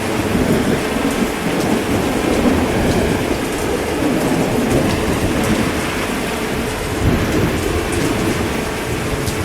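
Steady heavy rain with low rolling thunder rumbling underneath, the patter of drops on a surface ticking through it.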